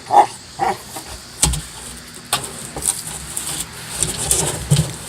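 Barrel toy being knocked and dragged around by a Rottweiler: a low rumbling scrape with hollow thumps, the two heaviest about one and a half and two and a half seconds in.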